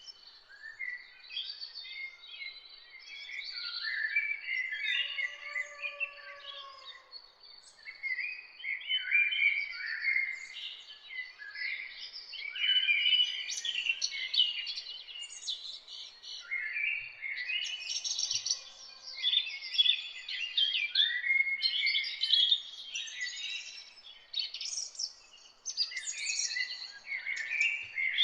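Several songbirds singing and chirping at once, a dense chorus of overlapping high chirps and trilled phrases. A lower slurred whistle sounds once about five seconds in.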